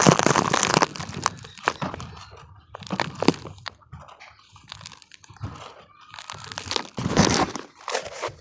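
Damp cement crumbling and crunching as it is crushed: a dense run of crunching at the start, then scattered cracks and crumbles, with another burst of crunching about seven seconds in.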